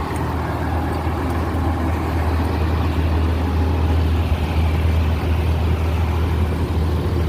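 Vehicle engine idling: a steady low hum that slowly grows louder, over street noise.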